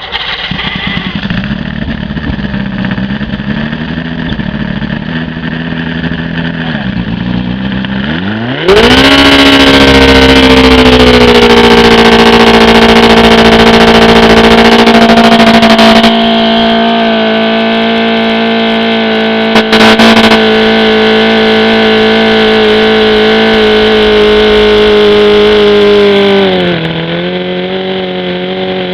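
OMC 125 hp V-4 outboard running on a test dyno. It revs up sharply about a third of the way in and holds a steady high speed, then sags near the end and picks back up. The owner judges its VRO fuel pump bad, unable to keep the carburettor float bowls filled.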